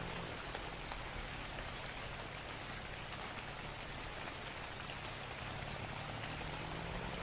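Scania Super 540 truck engine with a straight-through exhaust running at a steady low drone, under a constant hiss.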